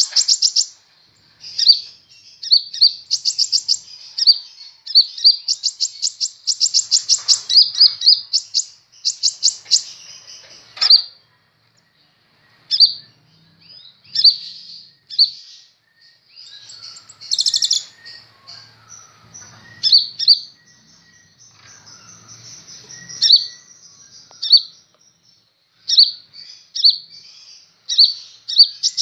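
Kolibri ninja sunbird singing: rapid runs of high, sharp chirps for the first ten seconds or so, then after a short pause single chirps spaced a second or two apart with softer twittering between them.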